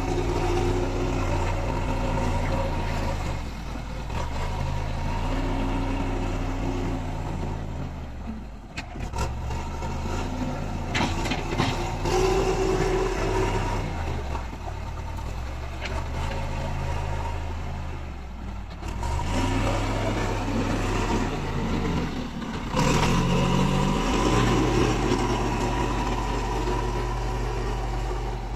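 Diesel engine of heavy road-construction machinery running under changing load, its pitch stepping up and down every few seconds as the machine works.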